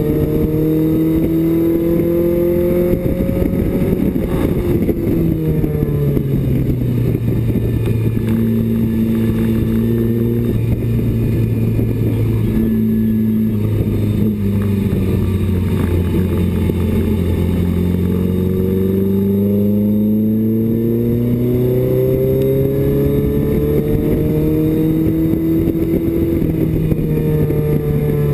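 BMW 2002 race car's four-cylinder engine heard from inside the stripped cabin, driven hard around the track. The revs rise and fall through the lap: a drop about four seconds in, a long climb in the second half, and a fall again near the end.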